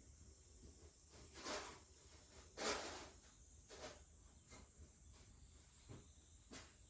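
Wood fire giving a few short hissing bursts, the loudest about two and a half seconds in, over a faint steady high drone of cicadas.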